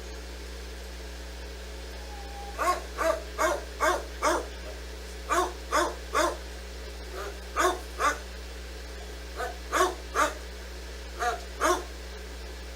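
A dog barking repeatedly, about fifteen short barks in bouts of two to five, starting a few seconds in.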